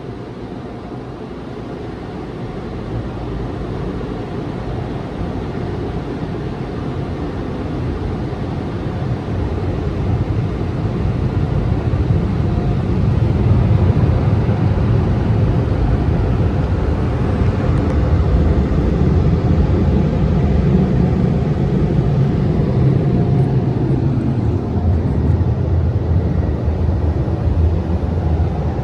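Car wash dryer blowers spinning up, a steady rushing rumble that builds gradually over about ten seconds and then holds at full power.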